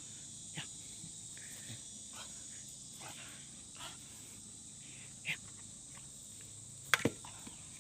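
Steady high-pitched chirring, typical of crickets or other insects, with faint scattered taps. Two sharp clicks about seven seconds in are the loudest sounds.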